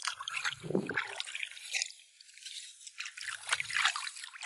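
Shallow seawater trickling and splashing in irregular crackly bursts, with wet squelching as the shoreline water and seaweed are stirred, and a couple of dull low thuds.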